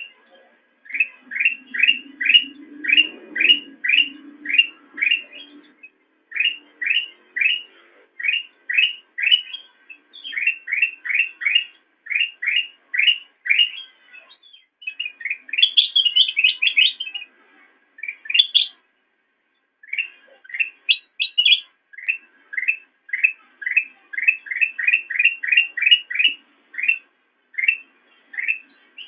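Kutilang emas, a bulbul, chirping in fast runs of short repeated notes, about four a second, broken by brief pauses, with a busier, higher warble about halfway through.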